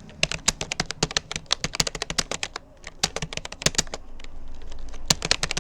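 Fast touch-typing on a Rapoo computer keyboard: a quick, uneven run of key clicks with a short pause about two and a half seconds in.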